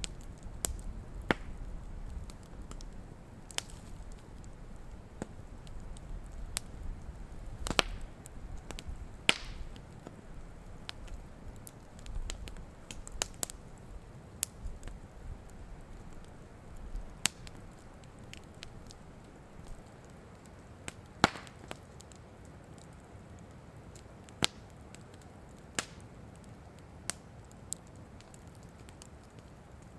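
Wood campfire crackling: irregular sharp pops and snaps from the burning wood, a few much louder than the rest, over a faint hiss. A low rumble underneath fades out about halfway through.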